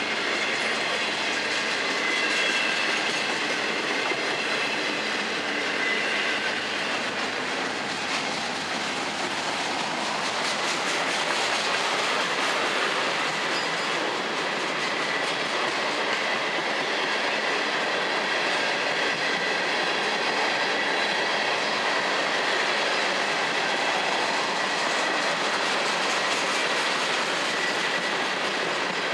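Freight cars rolling past close by, container well cars and then tank cars, with the steady rumble and rattle of steel wheels on the rails. A thin high wheel squeal sounds through the first several seconds and again near the end.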